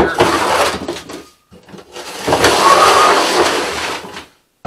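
Garden rake dragging sweet potatoes along a rack of doors laid flat: the potatoes scrape and roll across the flat surface in two pulls, a short one and then a longer one of about two and a half seconds.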